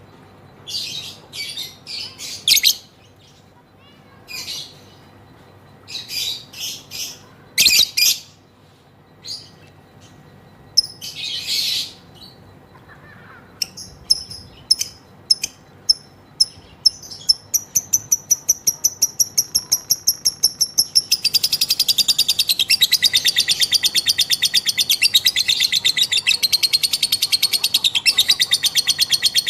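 Female lovebird calling: separate bursts of high chirps at first, then repeated notes that quicken and, about two-thirds through, run together into a long unbroken rapid chattering trill, the 'ngekek' that fanciers prize.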